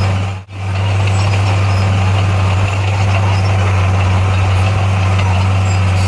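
Bulldozer's diesel engine running at a steady pitch, with clattering noise over a deep hum. About half a second in the sound dips out briefly and comes straight back, like an edit cut.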